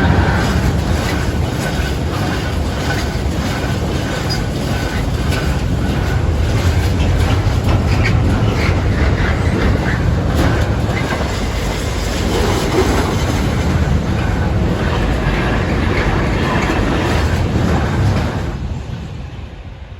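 Container freight train rolling past close by, its wagon wheels clattering rhythmically over the rail joints, with a faint wheel squeal. The noise fades away as the last wagons go by, near the end.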